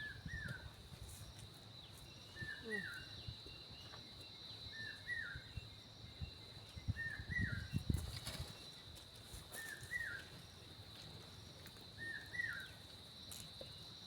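A bird repeating a short, quick call six times, about every two seconds, over a steady high-pitched whine, with soft low knocks and rustles in between.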